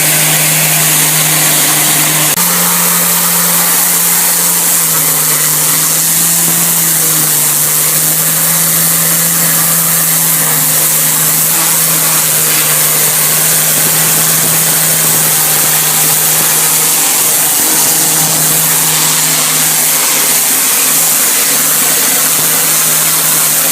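Engine-driven gum-removal cleaning machine running steadily, its hum stepping slightly in pitch a few times under a loud, constant hiss.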